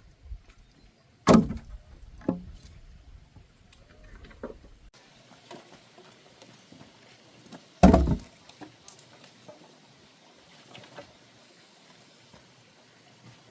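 Hand chopping blows into the wood of a fallen tree: a hard strike about a second in, a lighter one a second later, a faint one, then another hard strike past the middle.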